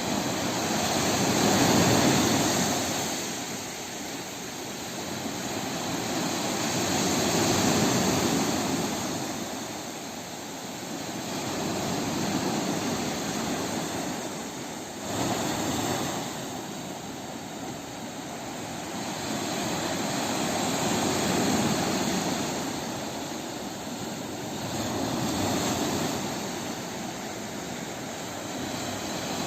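Sea waves breaking and washing in, a rushing noise that swells and ebbs about every five or six seconds.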